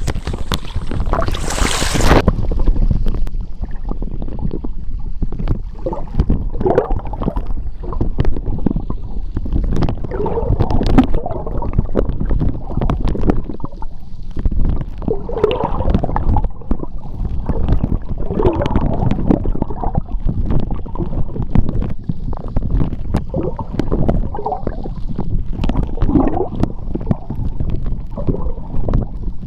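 Underwater sea ambience picked up by a submerged microphone: a steady low rumble of moving water with irregular gurgling bubbles and scattered small clicks. A brief hiss near the start.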